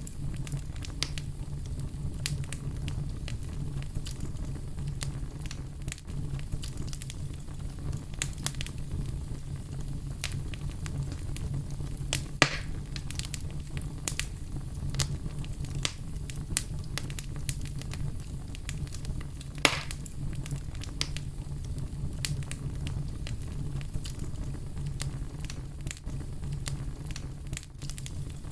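Fire crackling, with many scattered sharp pops over a steady low rumble. Two pops stand out louder, one a little before the middle and one about two-thirds through.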